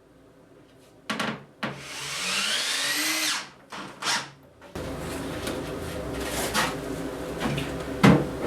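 Power drill driving a screw into framing lumber: the motor whines, rising in pitch for about a second and a half, then stops. A sharp knock on the wood near the end.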